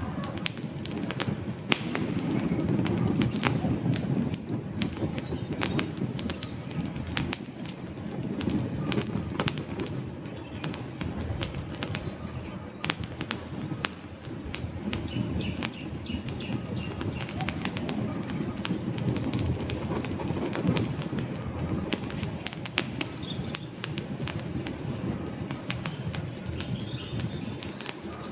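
Wood campfire burning: frequent sharp crackles and pops of burning logs over a low, fluttering rumble of flames that swells and eases.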